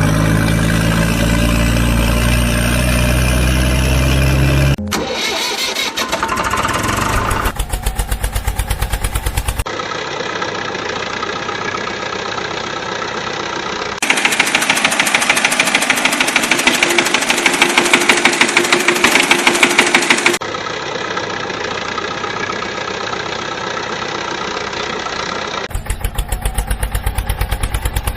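Engine running in a string of spliced clips that cut abruptly from one to the next, some with a fast, even chugging pulse.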